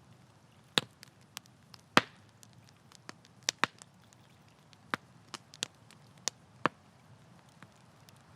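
Wood campfire crackling, with irregular sharp pops of burning wood, the loudest about two seconds in, over a faint steady low background.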